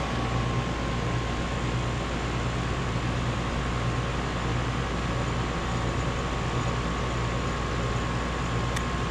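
2015 Lennox Merit 2.5-ton central air conditioner's outdoor condensing unit running steadily just after its first start-up of the cooling season, a low hum under an even rush of air.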